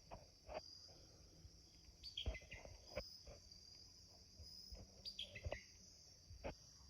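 Faint, steady high-pitched insect chorus, typical of crickets, with a bird twice giving a short falling string of chirps. A few soft knocks are mixed in.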